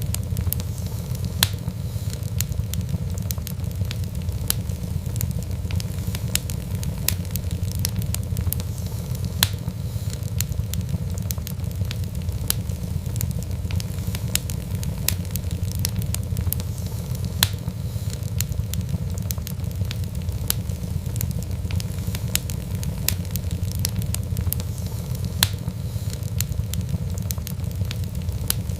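Wood fire crackling: frequent irregular sharp pops and snaps over a steady low rumble of flame.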